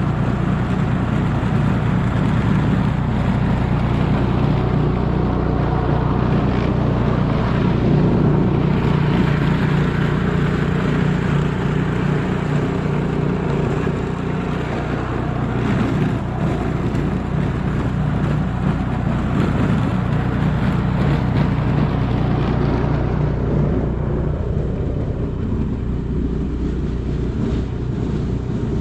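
A car running steadily: a low, even engine hum with a haze of road and motion noise, the higher hiss easing off near the end.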